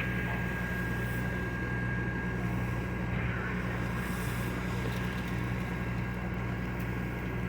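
Vehicle engine idling steadily with a low, even hum, and a faint steady high whine over it.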